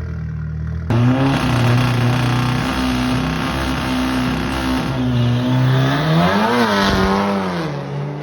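Drag-racing car's engine coming in loud about a second in and holding a steady pitch, then revving up and back down around six seconds in before settling at a lower pitch.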